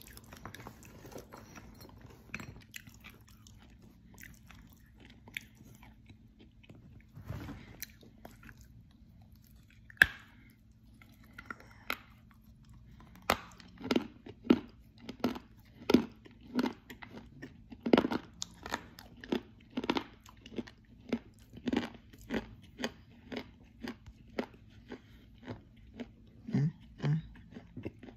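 Close-miked mouth crunching and chewing of hard edible clay. A few scattered bites come first, with one sharp crack about ten seconds in. From about halfway through it settles into steady crunchy chewing, about two crunches a second.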